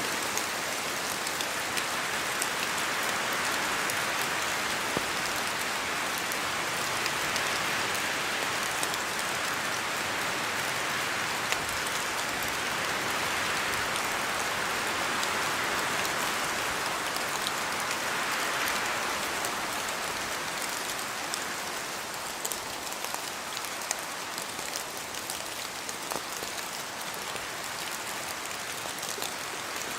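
Steady rain falling in a spruce forest: an even hiss with many single drops ticking sharply as they fall from the branches. The hiss swells and eases gently as wind moves through the trees.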